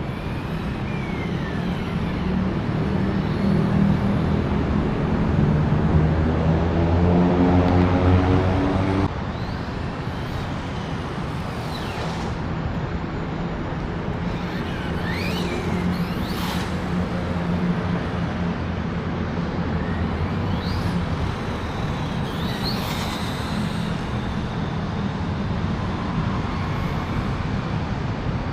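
Vehicle motors and traffic rumble. An engine's pitch climbs steadily for several seconds and cuts off suddenly about nine seconds in, followed by a few short whining rises and falls in pitch over a continuous roadway drone.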